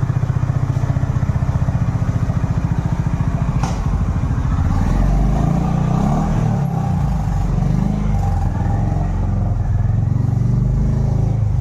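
Honda H'ness CB350's air-cooled single-cylinder engine running after a cold start: at first an even, pulsing idle, then, after a sharp click about three and a half seconds in, it runs louder and less evenly.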